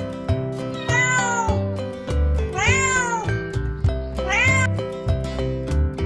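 Three cat meows, each rising then falling in pitch, the middle one the longest, over background music with a strummed guitar.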